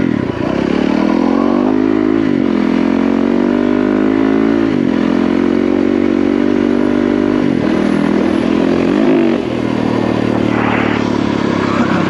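Yamaha WR450F's single-cylinder four-stroke engine under way on a dirt trail, pitch climbing and then dropping sharply every couple of seconds as the bike is throttled and shifted.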